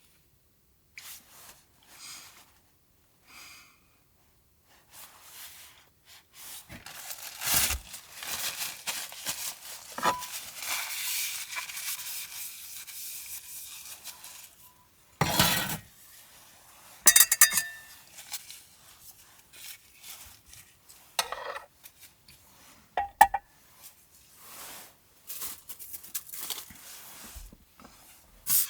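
Small handling sounds of cooking preparation: packaging rustled and torn open, with dishes and utensils knocking and clinking a few times.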